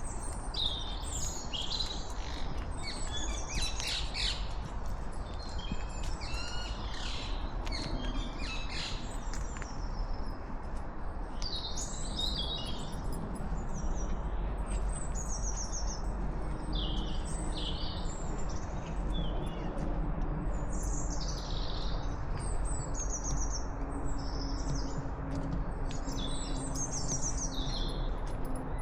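Wild birds singing, with a busy mix of chirps and quick trills from several birds, over a steady low background rumble. A faint steady hum comes in about halfway through.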